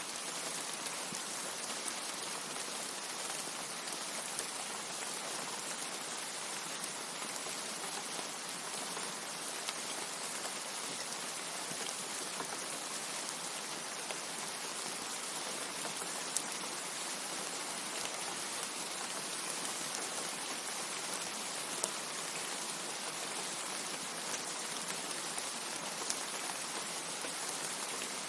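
Steady rain falling: an even hiss of rainfall with scattered sharper drop ticks.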